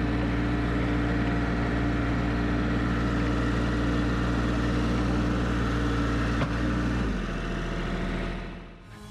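Toro TX1000 compact track loader's 25 hp diesel engine running steadily, with a single click about six and a half seconds in. About seven seconds in the engine note changes and drops, and the sound fades out near the end.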